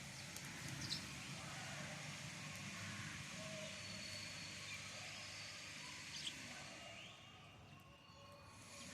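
Garden ambience with faint, occasional short bird chirps over a steady low background hum.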